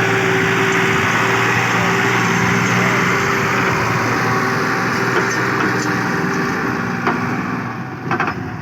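Tractor engine running steadily, a little quieter near the end, with a few sharp clicks in the last couple of seconds.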